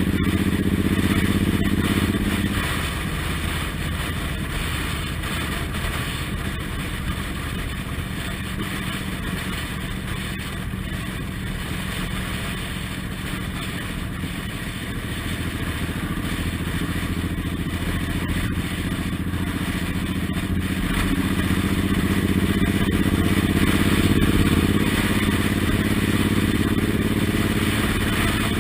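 Suzuki Intruder M1800R's big V-twin engine running under way, heard from the pillion over a steady rush of wind. The engine is loud at first, eases off about two and a half seconds in, then builds again through the second half as the bike accelerates.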